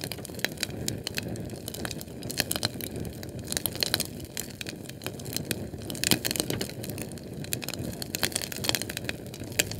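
Fire crackling: frequent, irregular sharp pops and snaps over a steady low rush of flame.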